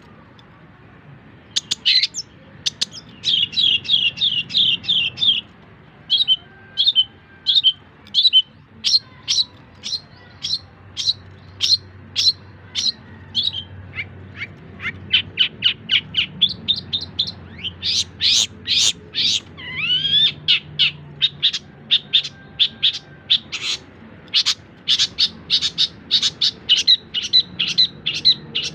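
Long-tailed shrike (cendet) singing a varied song of rapid repeated high chirps and trills, starting about a second and a half in. A rising whistled note comes about twenty seconds in.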